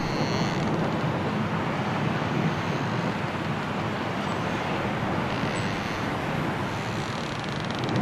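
Strong wind blowing steadily in a snowstorm, a continuous rushing noise without letup.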